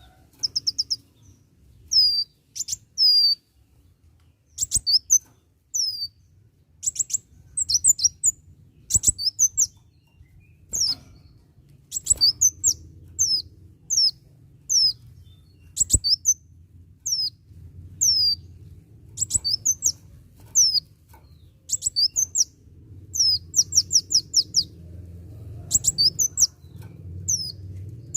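Kolibri wulung sunbird singing vigorously: bursts of rapid, high, thin chirps that sweep downward, in short clusters every second or two. A faint low hum lies underneath and grows louder near the end.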